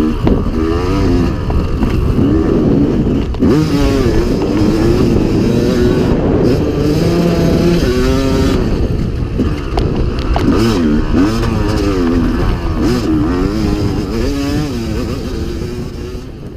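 A motocross dirt bike's engine being ridden hard, revving up and dropping back again and again through the throttle and gear changes. The sound fades out near the end.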